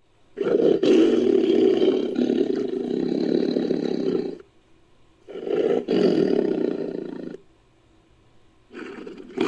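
Creature sound-effect roars made from tiger roars layered with a stock monster sound. There is a long roar of about four seconds, then a shorter one of about two seconds, and a third starts near the end.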